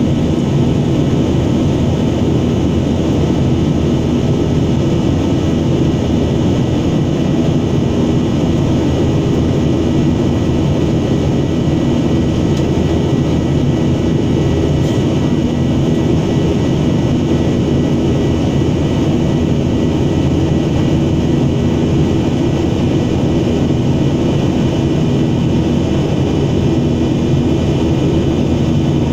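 Steady drone of an airliner's engines and airflow heard from inside the passenger cabin, unchanging throughout, with a few steady whining tones above the low rumble.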